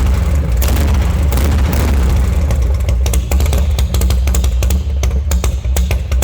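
1997 Harley-Davidson Heritage Softail's Evolution 45-degree V-twin running through an aftermarket Cobra exhaust with an S&S open air filter. It is revved for the first few seconds, then falls back to a loping run of separate exhaust pulses about halfway through.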